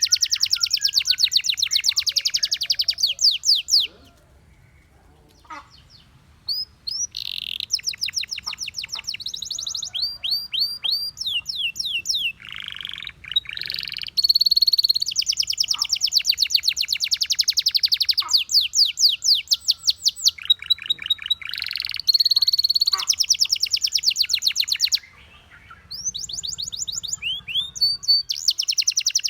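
Domestic canary singing: long runs of fast, rapidly repeated trill notes, each run lasting a few seconds and changing to a new trill. There is a pause of about two seconds a few seconds in, and a shorter one near the end.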